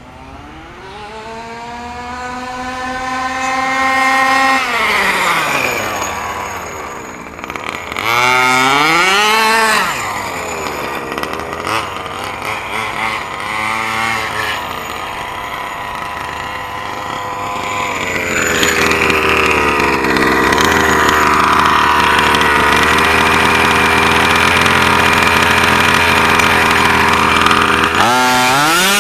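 Small two-stroke gas engine of an HPI Baja 5B RC buggy at full throttle: it revs up for several seconds and falls away, gives two shorter bursts, then runs at a steady high pitch for about ten seconds before dropping off near the end.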